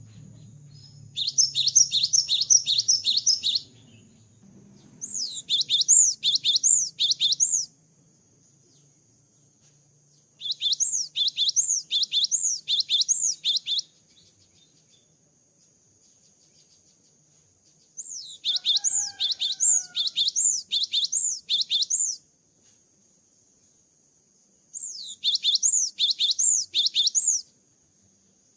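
Cinereous tit (gelatik batu) singing: five bouts of quick, repeated high whistled notes, about four a second, each bout lasting two to four seconds with short pauses between.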